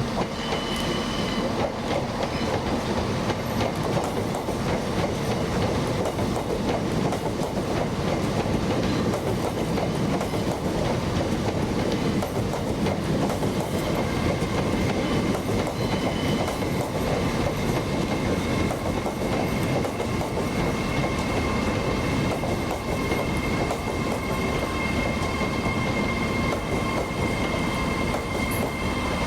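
A train running past on the track, a steady heavy rumble of wheels on rail, with a thin high whine or squeal joining in during the second half.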